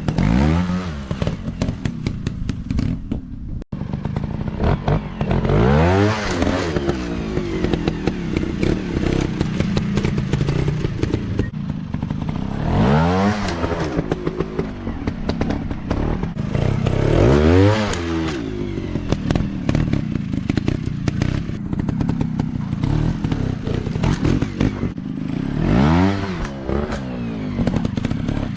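Dirt bike engines revving up and dropping back again and again, the pitch rising and falling every few seconds as the bikes are worked through rough terrain, with clattering and scraping underneath.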